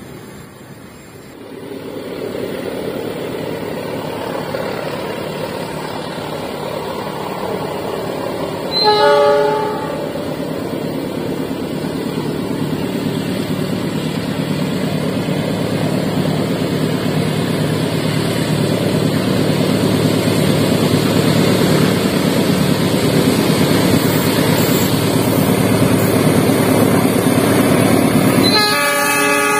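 GE CC206 diesel-electric locomotive hauling a freight train towards the listener: a steady rumble of engine and wheels that slowly grows louder. One short horn blast sounds about nine seconds in, and a second horn blast starts just before the end.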